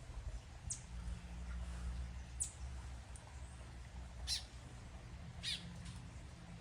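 Crimson-backed tanager giving four sharp, high call notes, each a quick downward sweep, spaced one to two seconds apart, over a steady low hum.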